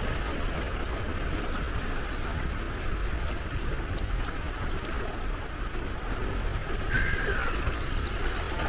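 Gentle sea waves washing against the shore with a steady low rumble, and a gull giving one short falling call about seven seconds in.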